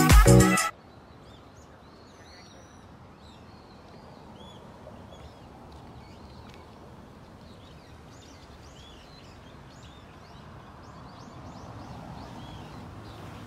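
Music cuts off suddenly just under a second in, leaving small birds chirping over steady outdoor background noise.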